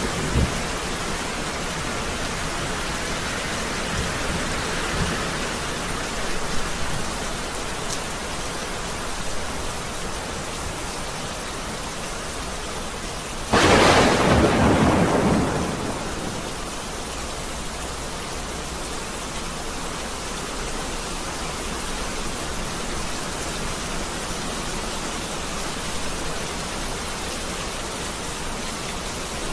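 Steady rain falling, with faint rumbles of thunder early on. About halfway through comes a sudden loud thunderclap that fades over a couple of seconds, and then the rain goes on.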